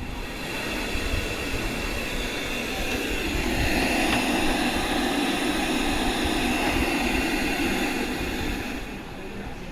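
FM radio static hiss from the Sony DAV-DZ850KW home theatre's tuner through a connected speaker, swelling louder around the middle and easing off near the end. The hiss shows the sound output is working again after the PCM1808 chip was replaced.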